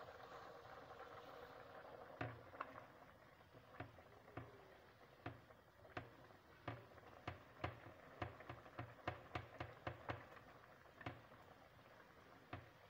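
Chicken, mushrooms and bell pepper frying in oil in a pan, with faint sizzling and irregular sharp pops and crackles, about one or two a second after the first two seconds.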